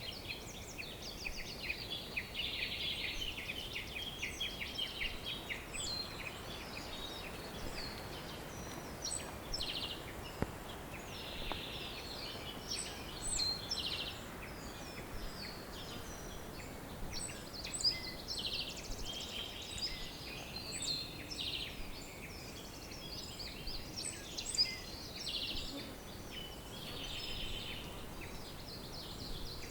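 Many songbirds chirping and trilling at once in a dense, overlapping chorus, over a steady background hiss.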